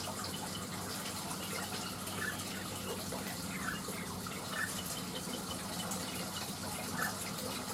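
Steady rush of running water with a low hum underneath. A few short, high bird chirps come through now and then, about four times.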